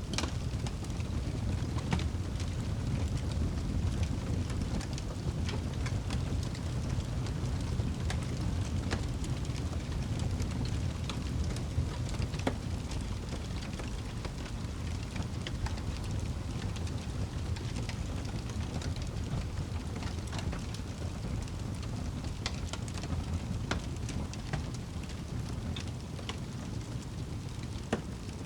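Wood fire burning in a fireplace: a steady low rumble of flames with many small sharp crackles and pops scattered through it.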